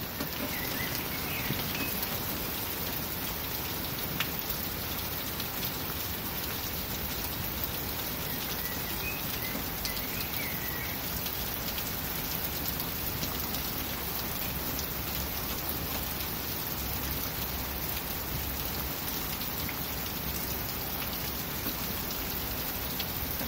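Rain falling steadily in a severe thunderstorm.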